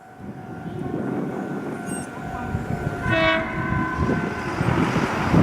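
Meitetsu 2000 series μSKY eight-car electric train approaching, its rumble and wheel noise growing louder, with one short horn blast about three seconds in.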